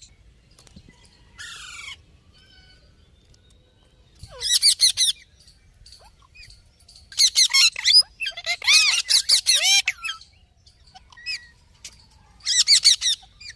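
Parrot calling in loud bursts of fast warbling chatter and squawks, separated by short pauses, after one brief falling squeal near the start.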